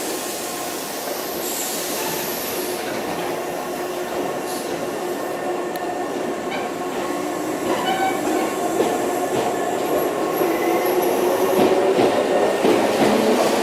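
Electric commuter train running through the station with steady motor and wheel noise, growing louder toward the end, with short clicks of wheels over rail joints in the second half.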